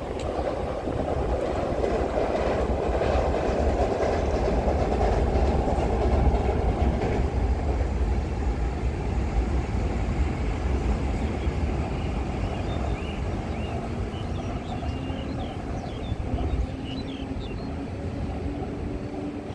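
Taoyuan Airport MRT train running past, its rumble and wheel noise building to a peak and then easing off, with a faint rising whine near the end.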